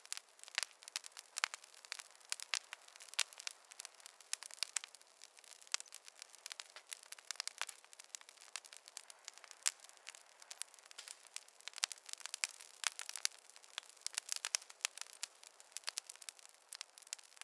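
Campfire crackling: a dense, irregular run of small pops and snaps.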